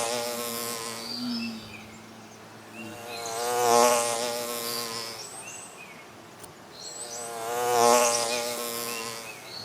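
Flying insect buzzing, a fly or bee, swelling up and fading away three times, about four seconds apart, as it passes close and moves off. Short high chirps sound faintly above it.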